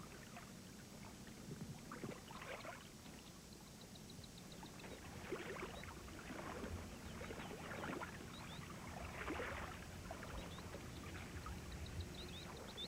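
Irregular splashing and sloshing of water, with short runs of faint high chirps twice.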